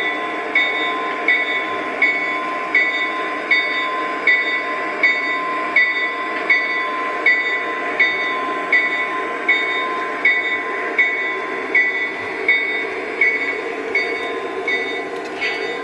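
Model Union Pacific diesel locomotives running on their sound system: a steady engine drone with a sharp ringing strike repeating about every three-quarters of a second.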